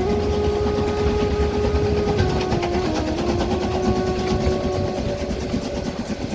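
HSB narrow-gauge train running, a steady rumble of wheels on the rails with light clicking, under a slow melody whose notes step down and up in pitch.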